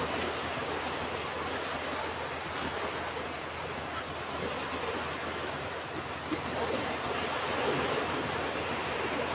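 Ocean waves breaking and washing on a beach: a steady hiss of surf that swells a little near the end.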